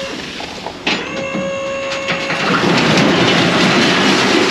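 A load of scrap metal tipping out of a raised dump bed. A steady whine as the bed lifts, a sharp knock about a second in, then a long rumbling clatter of metal sliding off from about halfway through.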